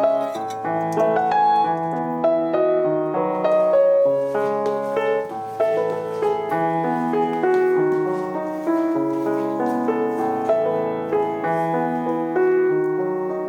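Background piano music: a gentle, unhurried run of notes and chords.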